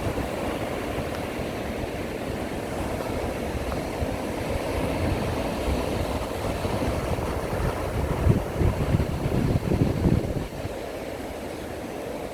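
Ocean surf with wind buffeting the microphone: a steady low rumble, with louder gusts about eight to ten seconds in.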